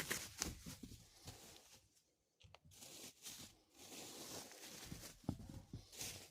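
Irregular rustling and tearing sounds with short clicks, like packaging being handled and pulled open, broken by brief pauses.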